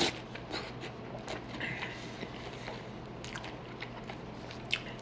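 Close-up eating sounds: a person biting and chewing food near the microphone, heard as a scatter of short wet clicks, with a sharper click near the end.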